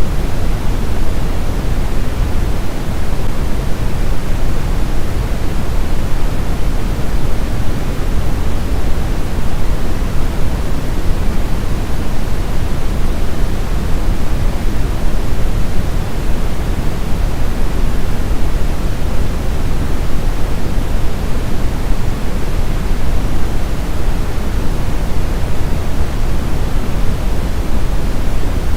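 Steady, unchanging noise for baby sleep, heavier in the deep end than in the hiss, with no rhythm or breaks.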